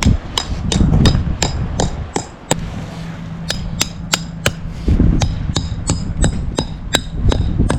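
Hammer driving nails into the edge of artificial turf: quick, sharp strikes about three a second, with a pause of about a second partway through.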